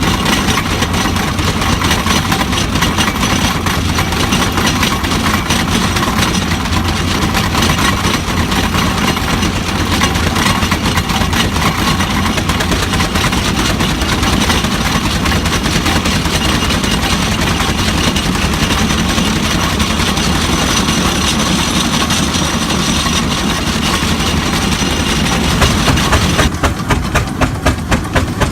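Marshall steam traction engine running, a steady loud mix of steam hiss and rapid exhaust beats. Near the end the hiss falls away and the chuff of the exhaust stands out, about three or four beats a second.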